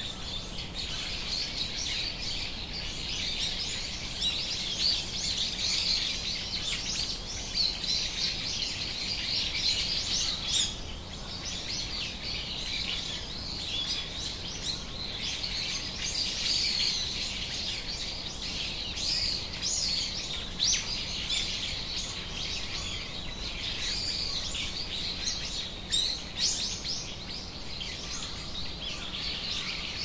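Birds chirping and calling, many short high chirps overlapping without a break, over a steady low background hiss.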